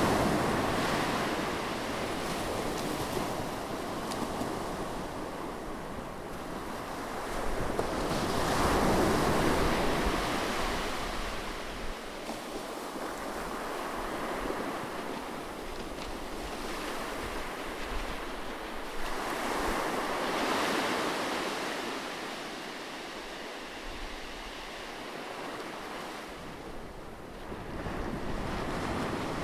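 Ocean surf: waves breaking and washing in, the rush of water rising and falling in slow surges about ten seconds apart.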